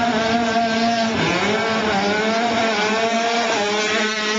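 Minibike engines running, the engine pitch rising and falling as they are revved, over one steady engine note.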